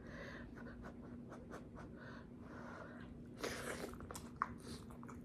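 Faint mouth clicks and smacks of someone chewing sweet corn on the cob, with a short louder chewing burst about three and a half seconds in and a sharp click soon after, over a faint steady hum.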